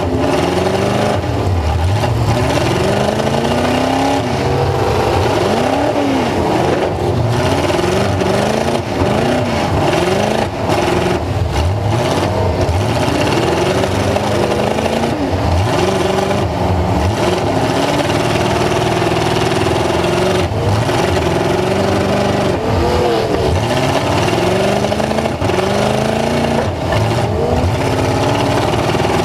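Full-size truck engine revving hard and continuously, its pitch rising and falling again and again as the throttle is worked.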